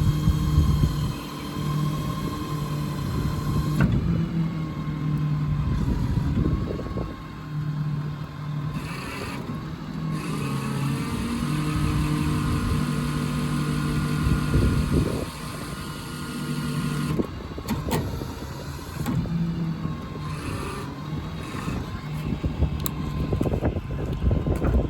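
IMT hydraulic crane on a Ford F550 service truck being worked by remote. The hydraulic drive drones with a thin whine, and the pitch steps and slides as crane movements start and stop, with a rising glide about ten seconds in.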